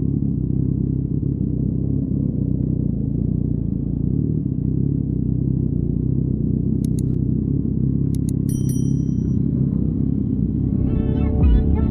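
2019 Yamaha MT-09's inline-three engine running steadily through an Akrapovic exhaust, with no marked revving. A few short sharp clicks come about seven and eight seconds in, and music fades in near the end.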